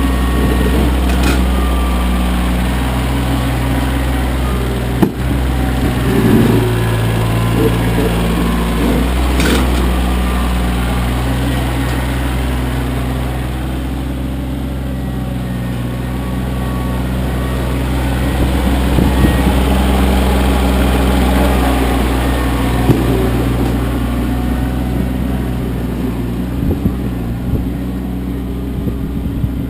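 Kioti CK25 compact tractor's three-cylinder diesel engine running steadily, its note stepping up and down several times as the load changes. There is one sharp knock about five seconds in.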